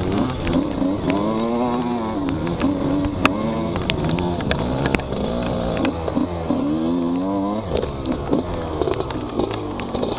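Motocross dirt bike engines revving, their pitch rising and falling again and again as the throttle is worked, with scattered sharp clicks.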